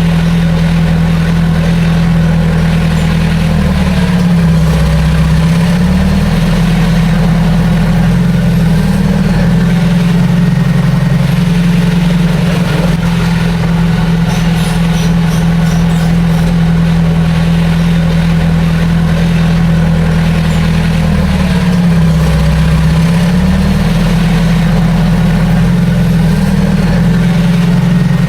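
Heavy diesel earthmoving machine engine running steadily at a loud, constant pitch. Its note sags twice, each time for a second or two, then recovers.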